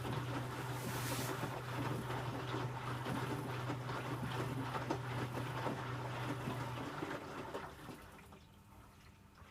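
Electrolux W455H commercial washing machine in its wash phase: the drum tumbles the load through water with a steady motor hum, then the motor and the sloshing stop about seven seconds in as the drum pauses.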